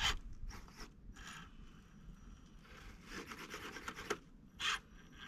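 Gritty scraping and rubbing on rock and dirt, in irregular bursts with the sharpest one right at the start.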